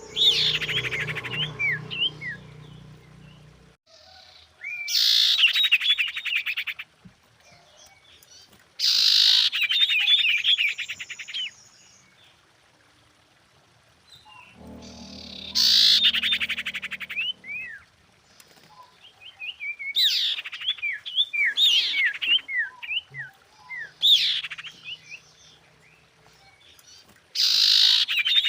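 Female common iora singing in repeated bouts, each a fast buzzy trill followed by short, quick sweeping whistles, with pauses of a couple of seconds between bouts.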